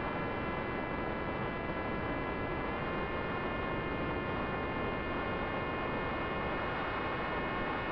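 FPV drone's electric motor and propeller in flight, a steady whine over rushing air noise, stepping up slightly in pitch about three seconds in.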